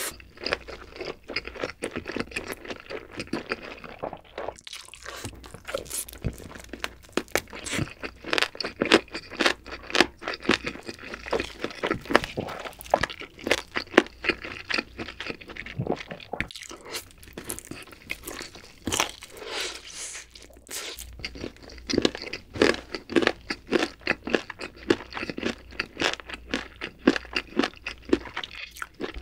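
Close-miked chewing and biting of a glazed grilled chicken drumstick: a dense, irregular run of crunchy mouth clicks and smacks throughout.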